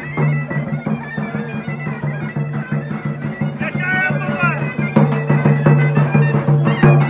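Traditional folk music: a wind instrument plays a melody over a steady low drone, with frequent sharp beats.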